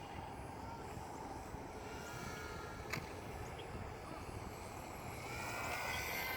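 Faint whine of a DJI Spark quadcopter's propellers, its pitch gliding slightly, growing louder over the last second or so as the drone comes closer.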